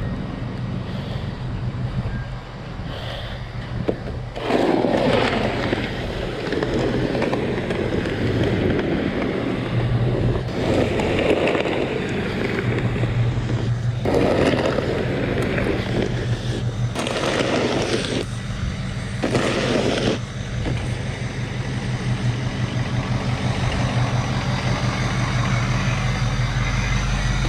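Truck engine idling steadily, with five long scraping strokes of a snow shovel clearing snow between about 4 and 20 seconds in, each lasting one to three seconds.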